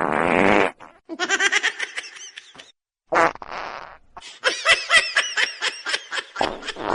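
A short buzzing rasp followed by a person laughing in quick bursts; a second rasp about three seconds in brings more laughing.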